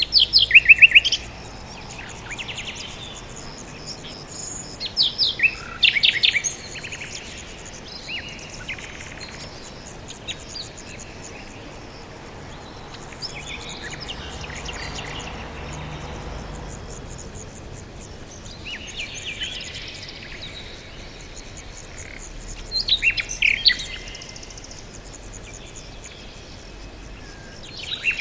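Songbirds singing: short loud bursts of rapid chirps about a second in, again around five to six seconds in and around twenty-three seconds in, with quieter chirps and a soft steady hiss in between.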